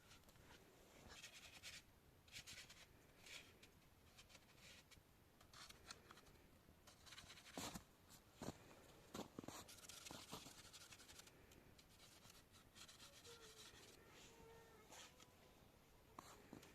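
Near silence with faint scratching and rubbing and a few light knocks about halfway through.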